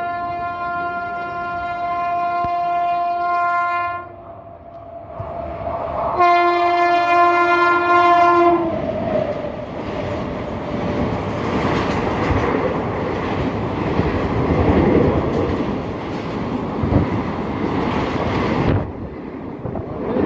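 An approaching express train sounds its horn twice: a steady blast of about four seconds, then a second of about two and a half seconds. It then runs past along the platform, a loud rumble of coaches with wheel clicks over the rail joints, which cuts off suddenly near the end.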